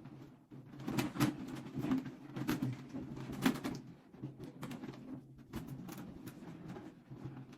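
Latex balloons being handled and pressed onto a column, with irregular rubbing, squeaking and crackling, over a low steady hum.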